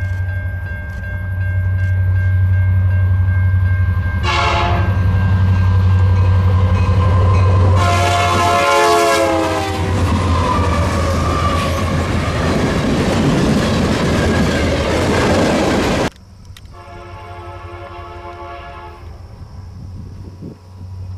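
Diesel freight locomotive sounding its multi-chime horn in repeated blasts over a steady engine drone. The horn's pitch drops as the train passes close, followed by a loud rush of the passing train. The sound cuts down suddenly about three quarters of the way in, and a quieter horn blast follows.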